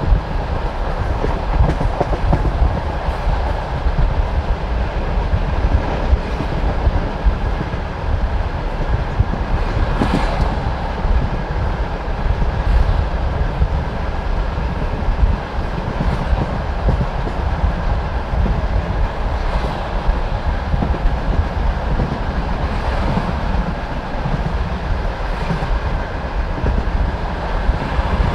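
Passenger train carriage running along the track, heard from inside the carriage: a steady rumble of wheels on rail with a sharp clickety-clack knock every few seconds as the wheels cross rail joints.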